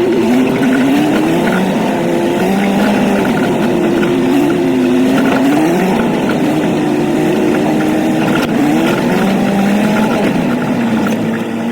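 An old truck's engine running under way, its note rising and falling again and again as the throttle changes.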